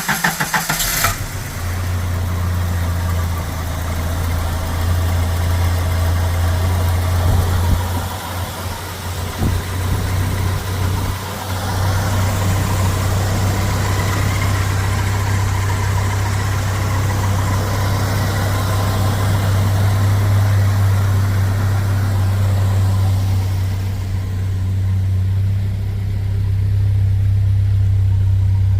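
1986 Jeep Cherokee Chief engine catching just after a start, then idling steadily, with a brief unsteady patch about ten seconds in.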